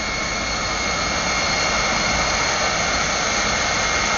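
Jet engine of a Kenworth jet truck running, a steady rushing roar with a high whine on top, slowly growing louder.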